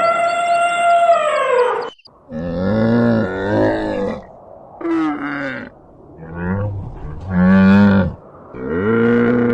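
A series of loud animal calls: a higher call that falls in pitch over about two seconds, then several shorter low calls, and a long steady low call starting near the end.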